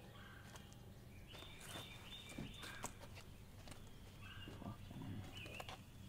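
Faint outdoor ambience: birds calling with short, steady whistled notes, and a few light taps and clicks.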